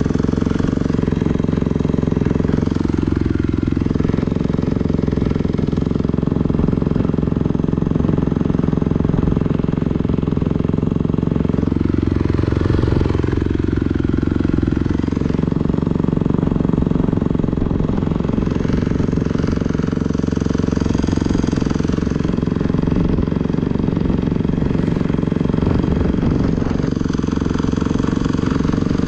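Four-stroke motocross dirt bike engine running under load on the track, the revs rising and falling through the corners, with a longer climb in pitch about twelve seconds in.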